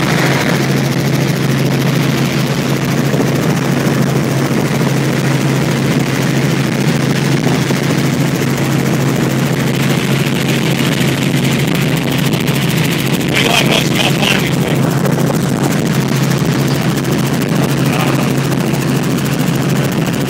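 Helicopter in flight heard from inside the cabin: a steady, loud drone of rotor and engine with a constant low hum. A brief louder burst cuts through about thirteen seconds in.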